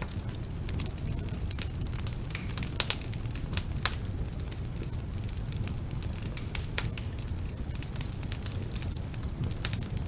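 Wood fire burning in a fireplace: a steady low rumble of flames with irregular sharp crackles and pops, a few louder pops about three to four seconds in.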